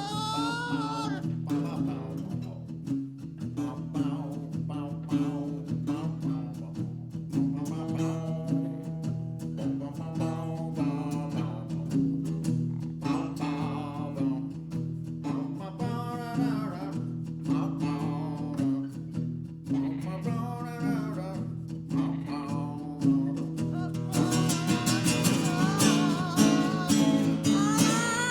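Acoustic guitar playing chords while a voice sings a melody over it. The music grows fuller and brighter near the end.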